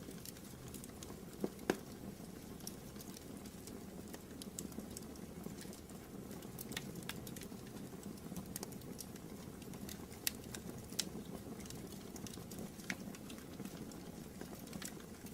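Wood fire burning in a fireplace: a steady low rush with scattered sharp crackles and pops, a few louder snaps among them.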